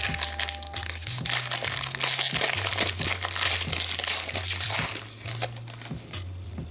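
Hockey card pack wrapper crinkling and crackling as it is handled and torn open, easing off about five seconds in.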